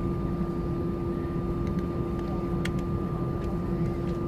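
Steady cabin noise inside an Airbus A320-200: a low rumble with two unchanging tones, one low and one higher, and a few faint clicks.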